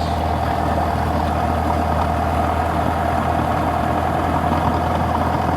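Cessna 172's piston engine and propeller running with a steady drone, heard inside the cabin.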